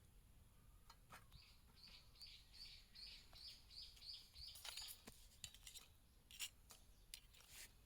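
Faint songbird call: a run of about ten quick repeated high notes, about three a second, lasting a few seconds. Scattered light clicks or taps are heard around it.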